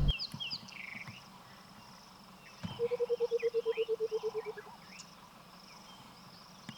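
Burchell's coucal giving its bubbling call: a fast run of low hoots, about a dozen over two seconds, falling slightly in pitch. Small birds chirp and whistle high above it.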